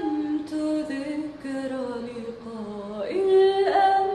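A single high voice singing unaccompanied, holding long notes that step down in pitch and then leap back up about three seconds in.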